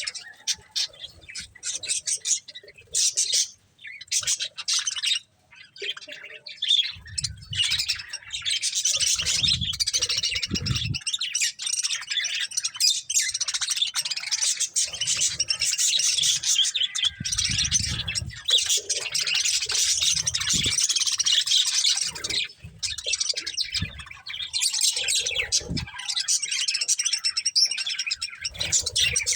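Budgerigars chattering and chirping in a fast, busy warble, sparse at first and then nearly unbroken, with a few dull low bumps now and then.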